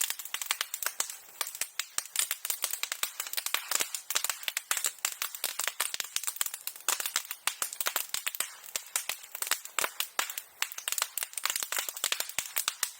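Dry bamboo grass (sasa) burning on a bonfire, crackling and popping rapidly and without a break. Only the sasa leaves have caught so far, not the heavier fuel.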